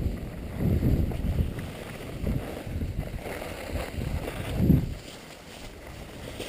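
Rumbling noise of skiing downhill: wind buffeting the microphone and skis running over snow. It swells loudest just before five seconds in, then drops quieter.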